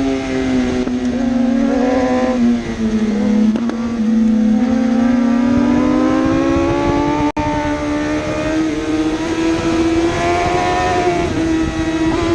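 1000cc superbike racing engines running hard at high revs, the pitch dipping and then climbing steadily as the bikes come off the throttle and accelerate again.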